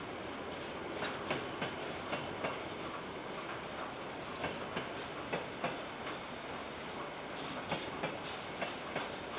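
Freight train container wagons rolling past, their wheels clicking over rail joints in irregular pairs of sharp ticks over a steady rolling hiss.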